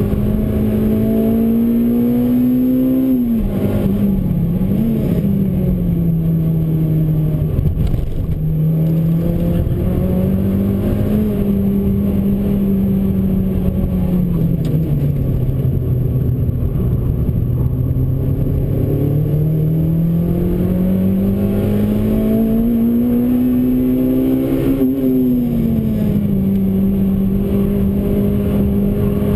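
Honda Civic Type R (EP3)'s K20 four-cylinder engine heard from inside the cabin under hard track driving, its revs climbing steadily over several seconds, dropping sharply about three seconds in and again near the end, and sagging and building back in between.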